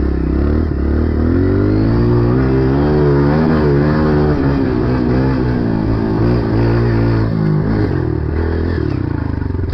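Dirt bike engine running under throttle while riding; its pitch rises about two seconds in, wavers up and down with the throttle, and falls near the end.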